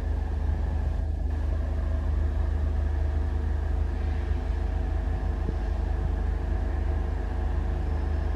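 Indian Railways electric-hauled express train running, a steady low rumble with a constant hum over it.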